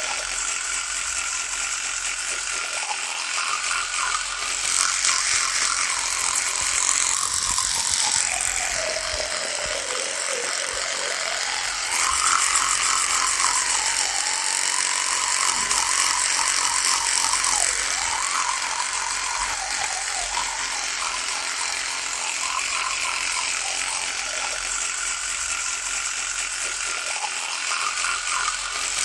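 Electric toothbrush buzzing continuously. About seven seconds in its pitch sags for a few seconds, then rises again about twelve seconds in, with somewhat louder stretches in between.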